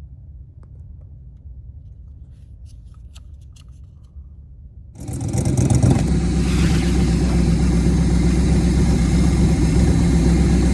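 Low hum with a few faint clicks, then about halfway in the truck's LS V8 engine comes in loud and runs steadily, with one brief rising sweep soon after it starts.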